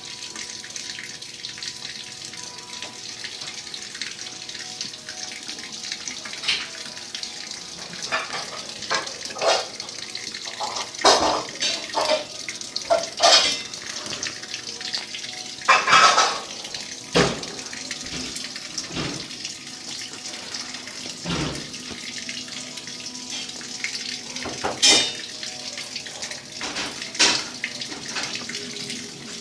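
Maytag washing machine running a wash, with a steady rush of water and irregular sloshes and splashes as the load churns in the tub.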